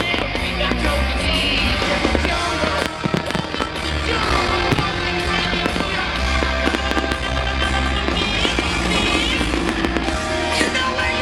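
Loud rock music over a public-address sound system, with repeated sharp firework bangs and crackles mixed in.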